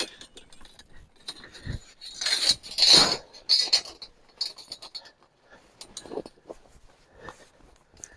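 Small metal objects clinking and rattling among rustling handling noise, loudest in a cluster about two to four seconds in.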